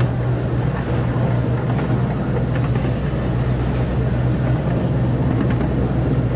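Small amusement-park ride train running steadily along its track, with a constant low drone and the rumble of the carriage.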